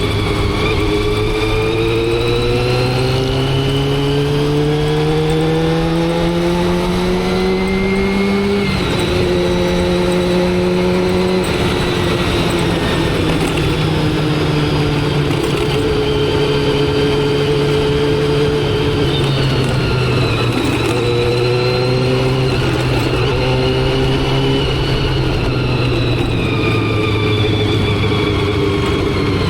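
Motorcycle engine running under way: its pitch climbs steadily for about eight seconds, drops abruptly, then holds a fairly steady cruise with small dips and rises, lifting again near the end.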